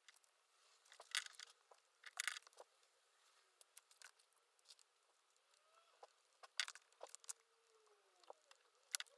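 Faint, intermittent scratching and rustling of paper while studying at a desk, with a few sharper strokes about 1, 2, 6.5 and 9 seconds in.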